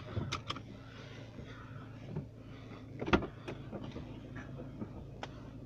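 Car engine idling, heard inside the stationary car as a steady low hum, with a few sharp clicks and knocks; the loudest knock comes about three seconds in.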